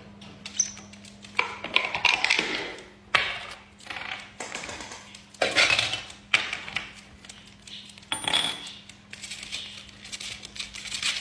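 Irregular light clinks, taps and clatters of small hard objects knocking together, over a steady low hum.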